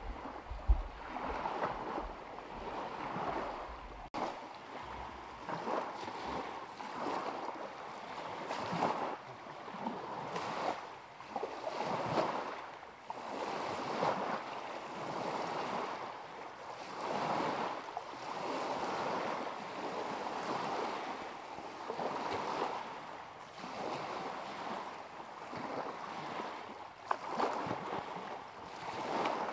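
Small lake waves lapping against the shore in repeated swells, one every second or two, with wind rumbling on the microphone for the first few seconds and a single sharp tap about a second in.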